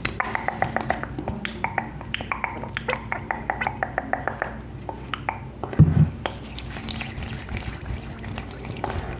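Hand massage close to the microphone: skin rubbing and pressing with quick clicking and smacking, about five clicks a second, thinning out later. A soft low thump about six seconds in.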